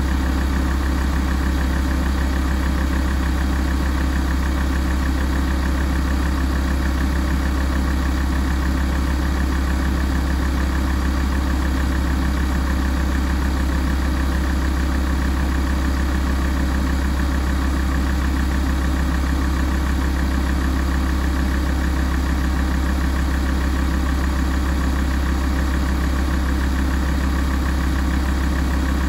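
Alfa Romeo 166 facelift's 2.4 JTDm five-cylinder diesel idling steadily while warming up, a deep, even running note with no change in speed.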